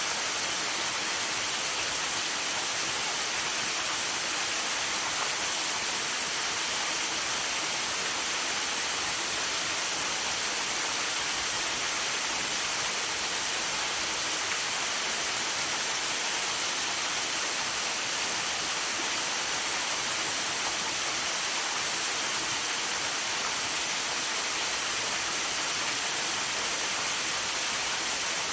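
Waterfall pouring steadily, an even, unbroken hiss weighted toward the high end, mixed with falling rain and sleet.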